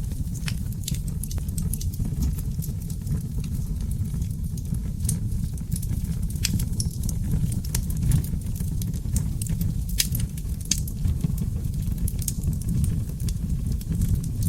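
Wood fire of burning oak logs crackling and popping, with irregular sharp snaps several times a second over a steady low rumble of the flames.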